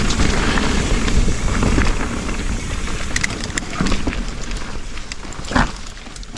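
Trek Slash 8 mountain bike riding down a wet dirt trail: wind rushing over the camera microphone with tyre noise on the ground and scattered clicks and rattles from the bike.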